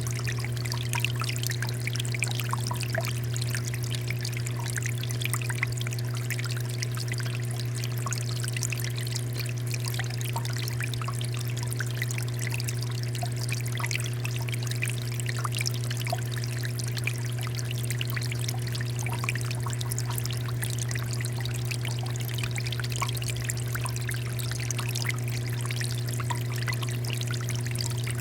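Water fountain flowing and splashing steadily, a constant patter of falling water over a steady low hum.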